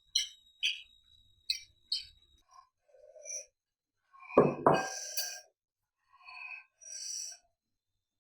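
Close-up eating sounds: a run of short wet clicks and smacks from chewing, then one louder thump about four and a half seconds in, followed by a few softer mouth noises.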